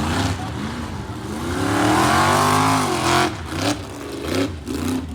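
Vehicle engine revving up and down: the pitch climbs to its loudest about two to three seconds in, then drops off, followed by a few shorter blips of throttle.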